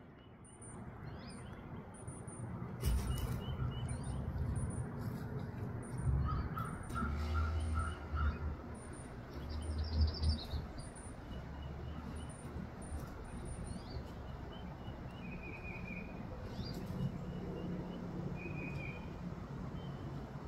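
Birds chirping and calling, with a very high, thin note repeated over and over and other shorter chirps, over a low rumble.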